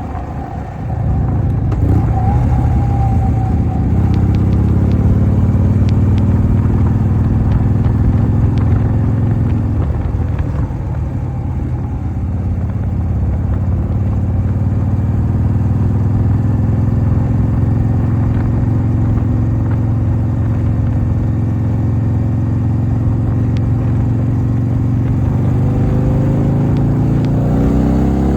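1988 Harley-Davidson Softail's V-twin engine running under way. It gets louder about a second in, climbs slowly in pitch, eases off about ten seconds in, then climbs again and revs higher near the end.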